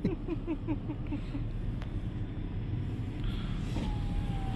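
Steady low rumble of an automatic car wash running around the car. A quick string of short falling notes sounds in the first second or so, and a long steady tone begins near the end.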